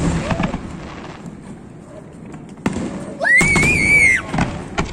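Fireworks going off, several sharp bangs and thuds over a few seconds. About three seconds in, a high voice gives a rising cry and holds it for about a second, the loudest sound here.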